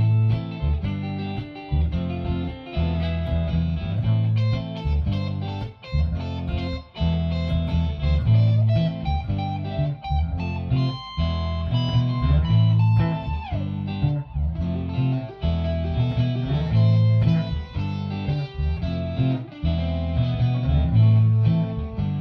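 Electric guitar playing a blues shuffle over a repeating low riff, with a bent note sliding down about two-thirds of the way through.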